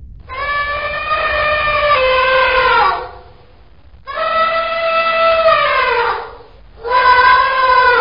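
Elephant trumpeting: three long calls, each holding a steady pitch and sliding down at its end, with short pauses between them.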